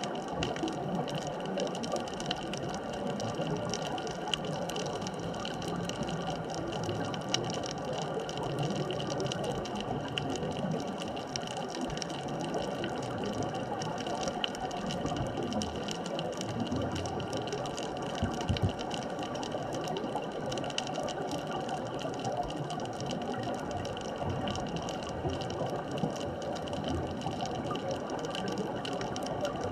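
Underwater ambient noise at a deep reef: a steady hum with several constant tones under a continuous crackle of fine clicks.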